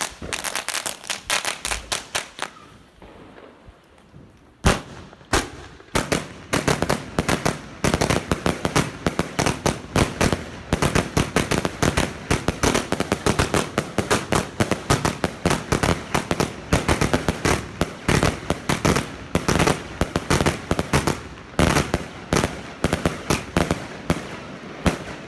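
Three chain-fused 25-shot Heron firework cakes firing, a rapid string of sharp shots several a second. There is a short pause about two seconds in, then the shots run on densely and stop shortly before the end.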